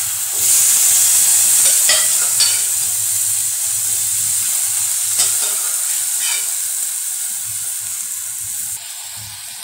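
Boiled chickpeas sizzling in hot oil and masala paste in a steel kadai as they are added and stirred with a steel ladle. The sizzle swells about half a second in and eases a little toward the end, with a few sharp clicks along the way.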